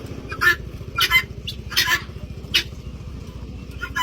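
A bird calling over and over, a string of short, high squawks about two a second. A steady low hum runs underneath.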